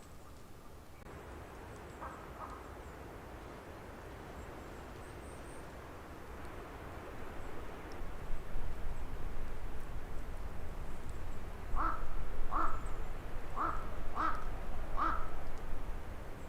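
A corvid, crow or raven, giving a run of five short harsh caws near the end, with two fainter calls a couple of seconds in. A steady low rumble grows louder partway through.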